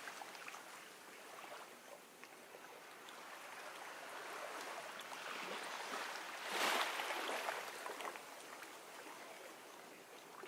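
Gentle ocean waves lapping and trickling at the shore, with one larger wave washing in about two-thirds of the way through.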